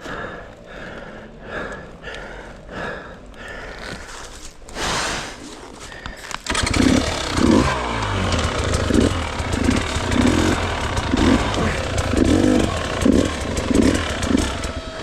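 Gas Gas hard enduro dirt bike engine catching about two-thirds of the way in and then running, with repeated short blips of the throttle. Before it catches there is a quieter rhythmic pattern of short strokes about every 0.7 s.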